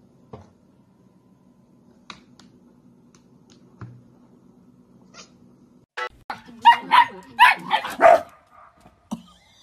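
A dog barking: a quick, loud run of about six high-pitched barks over about two seconds, after several seconds of only a faint hum and a few soft clicks.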